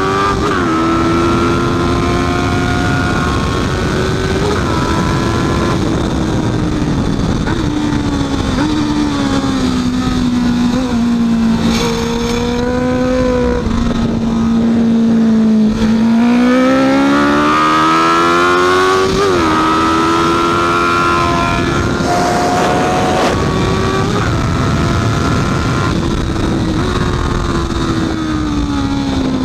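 Honda CB650F's inline-four engine running hard on a race track. Its pitch sags slowly for several seconds, then climbs steeply about halfway through and drops suddenly at a gear change, then rises and falls again.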